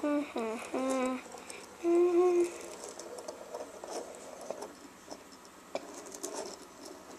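A voice making short hummed sounds, one held steady and others gliding downward, without words. Then scattered light clicks and taps of small toys being handled.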